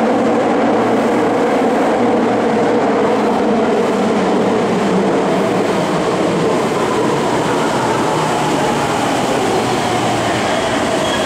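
Electric commuter train running in an underground station: a loud, steady rumble of wheels and motors echoing off the enclosed platform, with a faint, slightly falling whine near the end.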